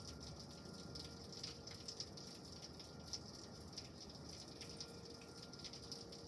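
Rain falling steadily during a thunderstorm, with scattered drips and small taps over a faint steady hiss.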